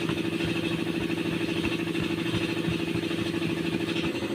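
An engine running steadily with a constant hum and a fast, even pulse, most likely the dump truck's engine.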